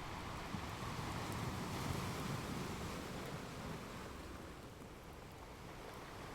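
Ocean surf washing: a wave swells in and eases off, then the wash builds again near the end. Faint crackles from a wood fire can be heard over it.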